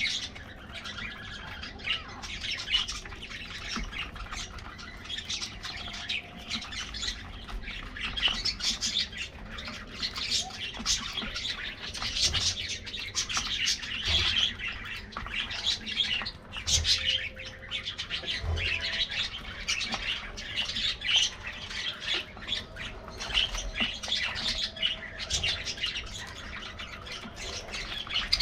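A flock of budgerigars chattering all together: many overlapping high chirps, warbles and squawks, with no pause.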